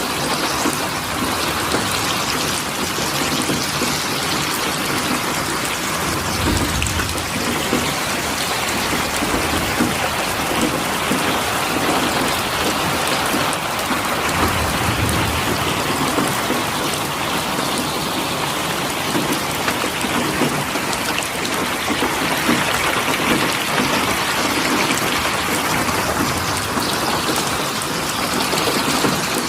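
Steady heavy rain falling and pattering on surfaces, an even dense hiss, with two brief low rumbles, one about a quarter of the way in and one around the middle.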